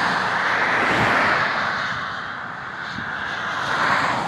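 Road traffic passing close by: tyre and engine noise swells, fades in the middle, then swells again near the end as another vehicle goes past.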